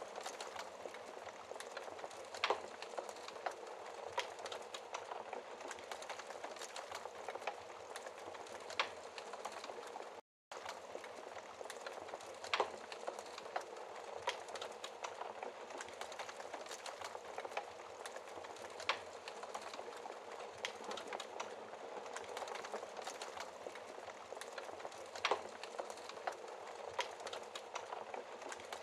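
Wood fire crackling in a fireplace: a steady hiss of small crackles with a sharper pop every few seconds. The sound drops out for a split second about ten seconds in.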